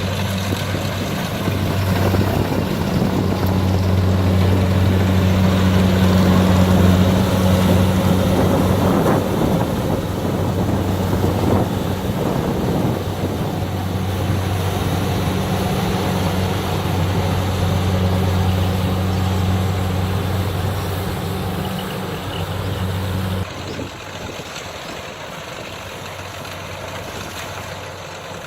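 Kubota DC60 combine harvester running steadily with a low, even engine hum. The hum cuts off suddenly near the end, leaving a softer rushing noise.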